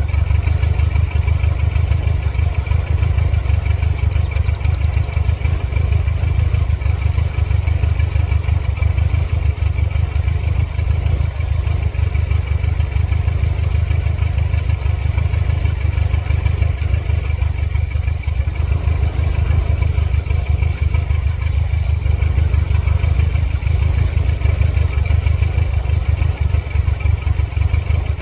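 1999 Mercedes-Benz C230 Kompressor's supercharged four-cylinder engine idling roughly, struggling to keep running, with a faint steady high whine over the uneven low pulsing of the engine.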